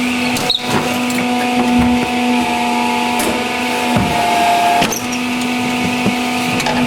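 Jigsaw puzzle cutting machine running with a steady hum, and a higher whine held for a few seconds in the middle as it cuts the puzzle.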